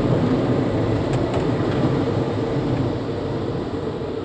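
Steady rumbling noise heard from inside a car's cabin, easing slightly near the end, with a few faint clicks about a second in.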